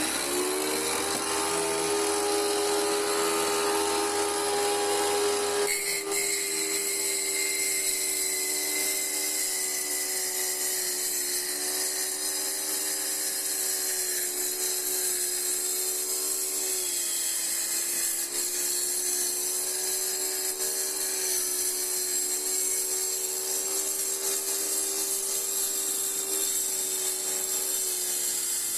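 Electric wet tile saw with a water-cooled spinning blade, its motor spinning up to speed in the first second and then running with a steady whine while the blade grinds through a round glass bottle. The sound changes about six seconds in, as the low hum drops away.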